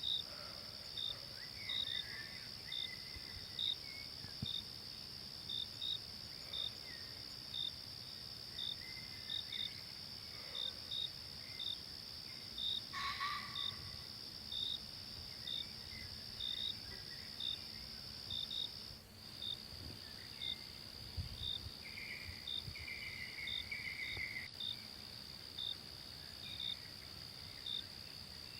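Forest insects: a steady high-pitched drone with a short chirp repeating about once a second, and a few faint bird calls over it.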